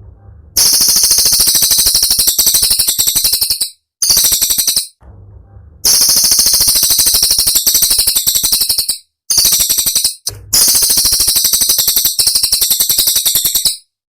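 Cililin songbird singing rapid, shrill, machine-gun-like rattling trills (the 'tembakan' used to train other songbirds), in phrases of one to three seconds separated by short pauses. The song cuts off about a second before the end.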